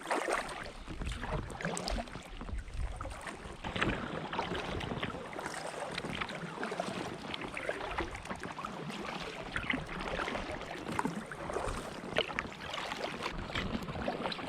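Kayak paddle strokes splashing and dripping in the water beside an inflatable kayak, with a low wind rumble on the microphone.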